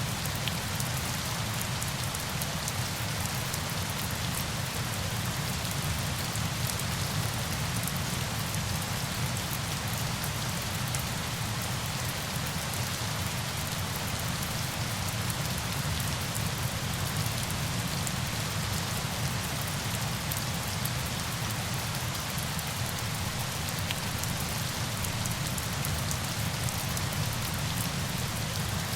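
Steady rush of falling water: a low rumble under a bright hiss, with faint fine ticks high up.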